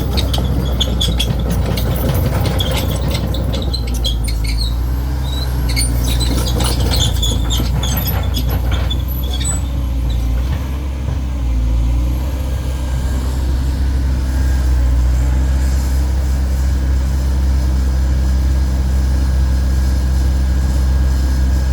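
Cat 320D2 GC excavator's four-cylinder ACERT diesel engine running steadily. High-pitched squeaks and clinks come through over the first half.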